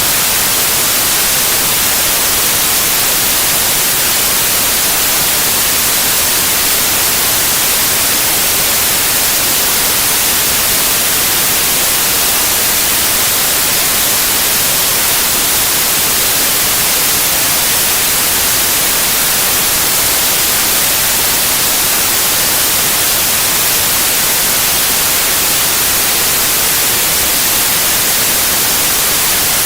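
Steady white noise: an even, unbroken hiss, brightest in the treble, with no changes or events.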